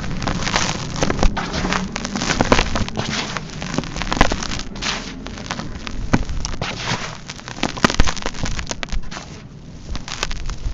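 Dry, dusty sand-cement chunks crumbling, a dense run of gritty crackles and crunches with a few sharper cracks, thinning out near the end.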